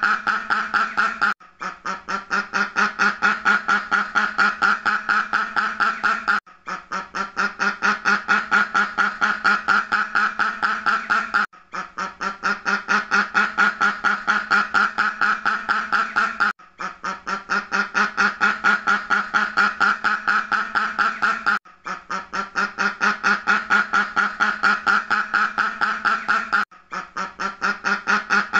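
A duck quacking in a fast, unbroken run of calls, several a second. The same short recording of about five seconds repeats as a loop, with a brief break each time it restarts.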